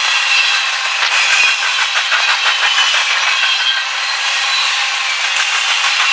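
A train passing at close range, its steel wheels rattling and clicking over the rails in a steady loud rush, with thin high squealing tones above it.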